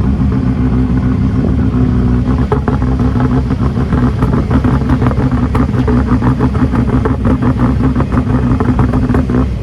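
Rally car engine held at steady high revs on the start line. From about two and a half seconds in, an irregular run of sharp crackles and pops rides over it.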